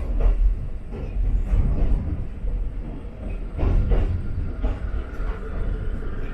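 Ichibata Electric Railway 7000 series electric railcar running along the line, heard from inside the car: a steady low rumble with irregular knocks of the wheels over the track.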